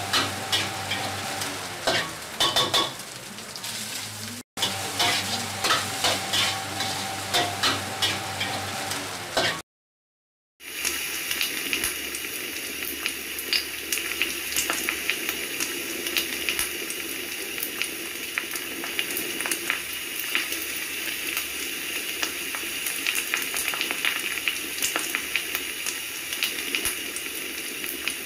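Food sizzling as it is stir-fried in a hot wok, with a spatula clicking and scraping against the metal over a steady hum. After a second of silence about ten seconds in, rice sizzles more evenly in a frying pan as it is stirred, with only occasional clicks from the spatula.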